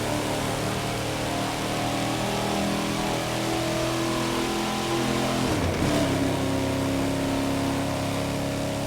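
Muscle car engine running steadily, with a brief shift in pitch and a small rise in level about six seconds in.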